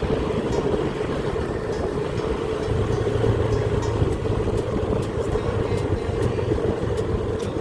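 Small motorcycle being ridden, with a steady run of engine and road noise and no change in pace.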